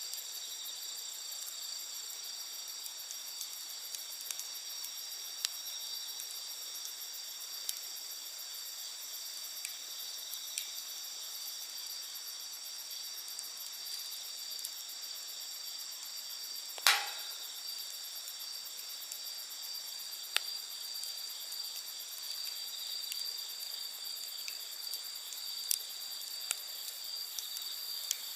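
Insects, tagged as crickets, chirring steadily in several high tones, over the sparse crackle of a wood campfire: scattered small pops, with one much louder pop a little past halfway.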